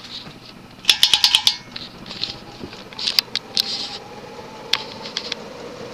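Pull chain of a Moss (Wing-TAT) WF Series ceiling fan rattling, with the speed switch clicking in a quick cluster about a second in and a few more clicks after, as the fan is switched from medium to high. Under it the spinner motor's faint hum slowly rises in pitch as the fan speeds up.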